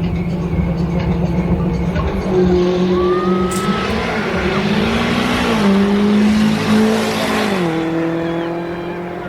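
Drag-racing sports cars' engines running and revving at the strip, their pitch stepping up about five seconds in and dropping near eight seconds, with a rushing hiss in the middle.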